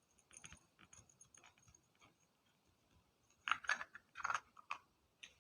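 Light clicks and rattles of an LED bulb's metal heat sink being fitted back into its plastic housing: a few faint ticks, then a quick cluster of sharper clicks a bit past halfway, and one more near the end.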